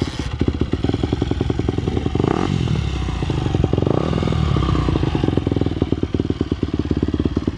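Yamaha YZ250F's single-cylinder four-stroke engine running just after being started, idling with rapid, even firing and a brief rise in speed about two seconds in.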